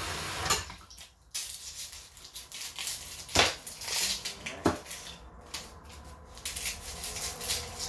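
Dry onion skins being peeled with a kitchen knife: irregular crackles, scrapes and sharp clicks of the blade and papery skin. A steady hiss cuts off about half a second in.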